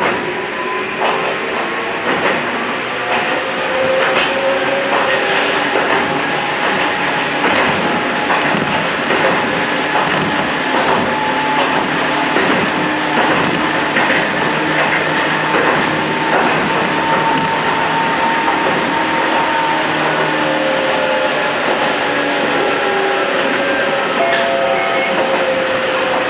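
Toyama Chiho Railway 14760-series electric train running along the line, with a steady rumble of running noise and the motor whine slowly rising and later falling in pitch. Short clicks from the wheels over the rails come through.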